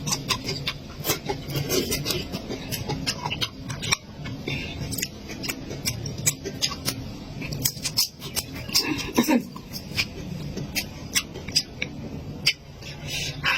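Close-miked eating: chewing and mouth sounds, with a run of sharp, irregular clicks a few times a second.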